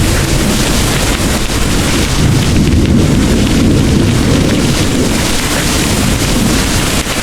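Heavy rain falling steadily over a deep rolling rumble of thunder that swells midway and eases off.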